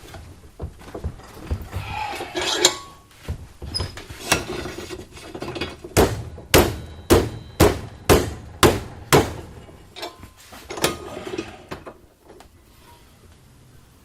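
Hammer blows on a steel plate, bending its scored edge over to 90 degrees. Scattered knocks and metal clatter come first, then a run of seven hard strikes about two a second, then a couple of lighter knocks.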